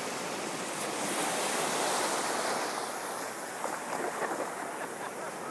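Ocean surf washing onto the beach, a steady rush of waves that swells about a second in, with some wind on the microphone.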